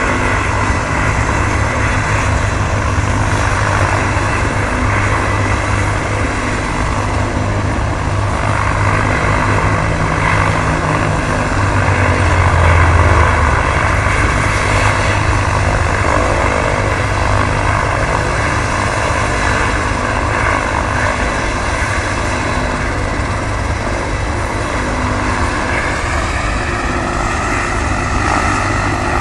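Life Flight medical helicopter running close by, a steady loud rotor beat with a whine above it, swelling louder about twelve seconds in; the whine's pitch rises near the end.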